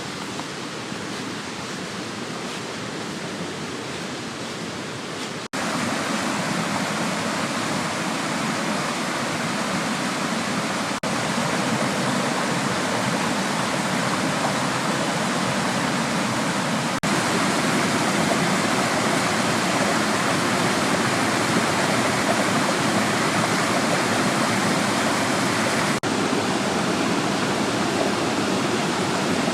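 Waterfall rushing steadily: an even wash of falling water. The level jumps abruptly a few times, mostly getting louder.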